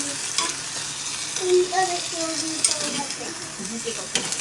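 Kimchi stew sizzling in a small iron pot over an alcohol stove, a steady hiss, with a few sharp clicks of a utensil against the pot.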